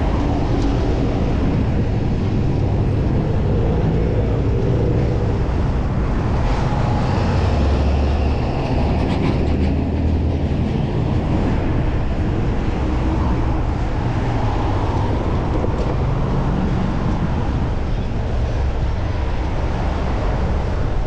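Wind buffeting the microphone of a camera riding along on a bicycle, mixed with road traffic. A louder vehicle goes by from about six and a half to eleven seconds in.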